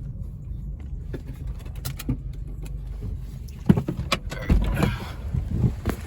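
Car running at low speed with a steady low rumble, then a run of sharp clicks and knocks from inside the cabin in the second half.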